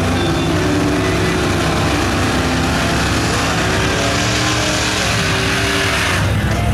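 Loud, continuous engine noise from off-road mud trucks, the engine pitch rising and falling slightly as they rev.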